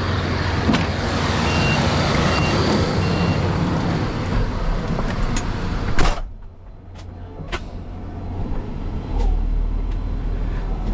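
A heavy vehicle's engine running steadily, with wind noise, and three short evenly spaced backup-alarm beeps a couple of seconds in. About six seconds in, the sound drops off suddenly to a quieter engine hum with a few clicks.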